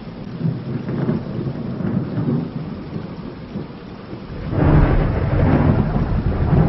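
Thunder rumbling over steady rain, with a loud, deep roll of thunder building about four and a half seconds in.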